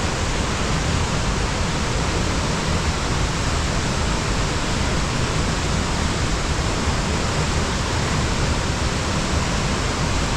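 Waterfall: water falling onto rock and a pool, a loud steady rushing noise with no change.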